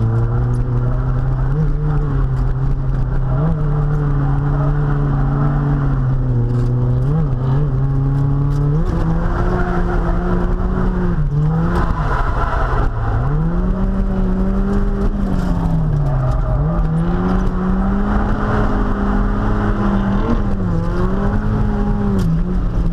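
1.8-litre Mazda Miata four-cylinder engine held at high revs during drifting, its pitch dipping and rising again and again with the throttle. The pitch steps up about nine seconds in and swings more widely after that, over a steady rush of tyre and wind noise.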